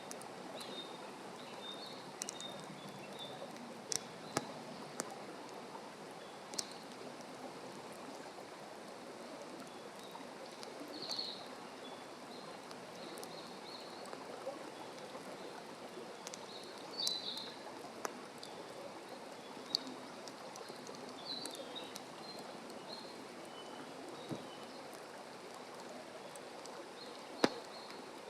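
Open wood campfire crackling over a steady hiss, with a handful of sharp pops, the loudest near the end. Small birds chirp briefly now and then in the background.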